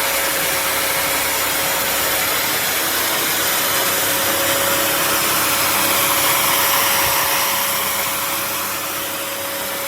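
Bissell CrossWave HydroSteam wet-dry vacuum cleaner running in steam mode: a steady motor whine over a loud, even rush of suction.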